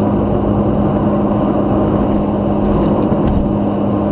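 Steady road and engine noise inside a moving car's cabin, with a constant low drone. There is a brief click about three seconds in.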